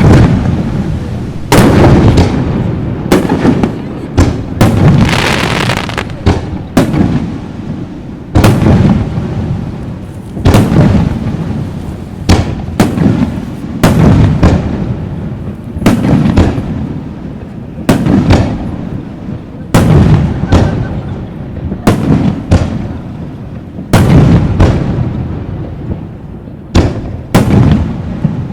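Aerial fireworks shells bursting in rapid succession, a sharp bang roughly every second or two, each followed by a rolling echo and rumble that overlaps the next.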